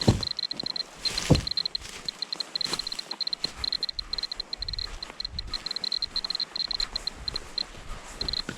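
Radiation dosimeter beeping in fast, irregular runs of short, high chirps, a sign of raised radiation in a contaminated spot. Two heavy thumps come near the start.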